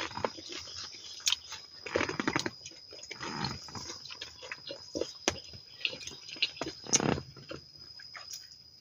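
A person chewing and biting food close to the microphone: irregular wet smacks and crunches, with a steady high tone in the background.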